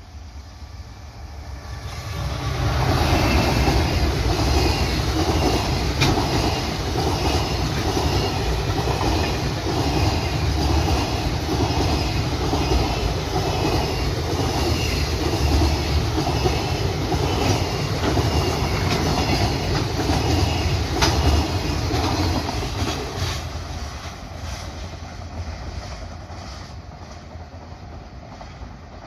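Freight train passing close by, its wheels clattering in an even repeating rhythm over the rail joints as the wagons roll past. It builds over the first few seconds and fades after about twenty-three seconds.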